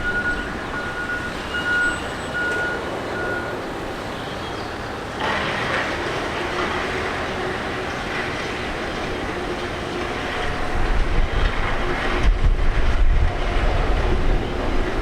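Jet airliner noise, rushing steadily and growing fuller about five seconds in, with a deep rumble and wind buffeting the microphone over the last few seconds. A string of short high beeps sounds over the first three seconds.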